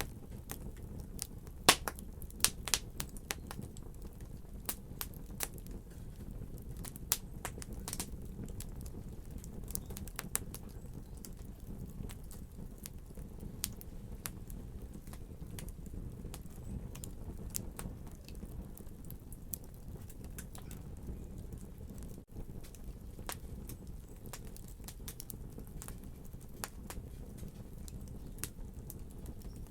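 Wood fire crackling in a fireplace: irregular sharp pops and snaps over a steady low rumble of the flames, with the loudest pops in the first few seconds.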